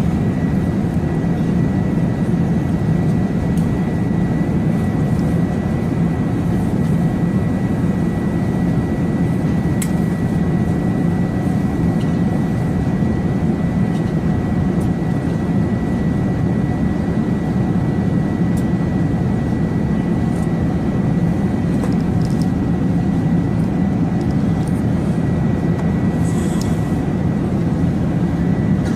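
Steady airliner cockpit noise, a constant rushing drone with a thin high tone held steady above it.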